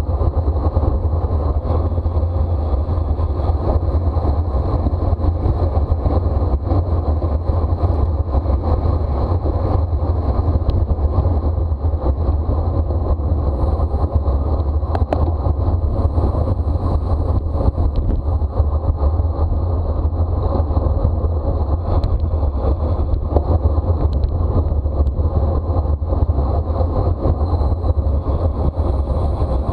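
Wind rushing over the microphone of a racing bicycle at speed: a steady, loud low rumble, with a few faint clicks.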